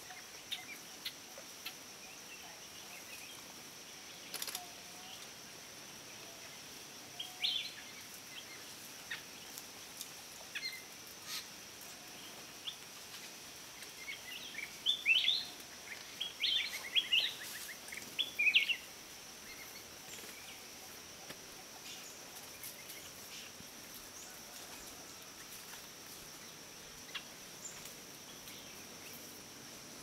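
Wild birds calling in forest: scattered short chirps, with a busier, louder run of calls about halfway through, over a steady high-pitched drone.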